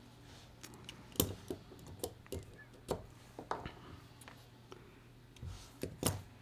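Scattered small clicks and taps of a folding knife's parts and small hand tools being handled during disassembly, about a dozen light knocks at irregular intervals.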